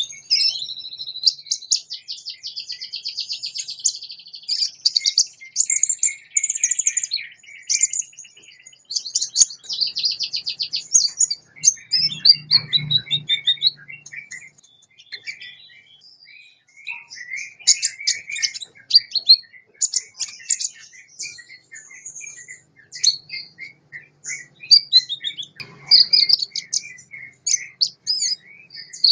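Sunbird song: a continuous run of fast, high-pitched twittering, chirps and trills, opening with a long rapid trill.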